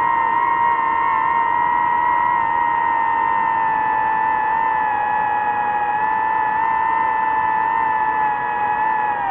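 DJI FPV drone's motors and propellers giving a steady high-pitched whine, the pitch easing slowly downward.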